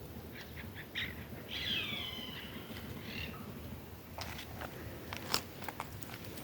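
An animal call: a few short chirps, then a longer cry that falls in pitch, starting about a second and a half in, followed by a few faint clicks.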